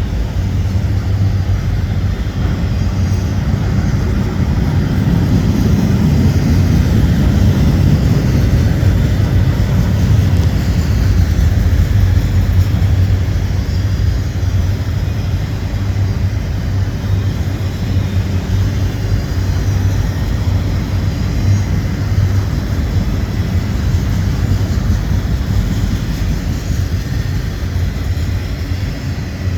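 Long autorack freight train rolling past, a loud steady low rumble of its cars going by on the rails.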